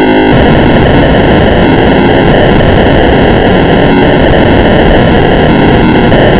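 Very loud, harsh static-like noise from a song loop distorted beyond recognition by stacked audio effects, steady throughout, with only faint traces of the music in the first moment.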